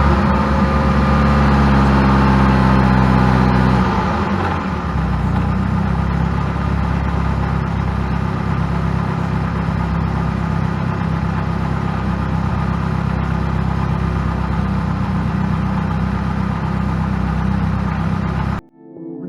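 Ferrari 308 GTS Quattrovalvole's mid-mounted 2.9-litre V8 running under way, heard close up from the engine cover. The note is steady, shifts about four seconds in, then holds steady again until it cuts off abruptly near the end.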